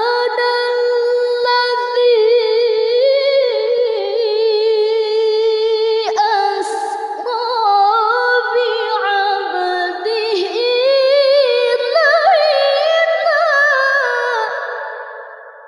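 A woman's voice reciting the Quran in a slow, melodic chant, drawing out long ornamented notes that waver up and down in pitch. The voice trails off near the end.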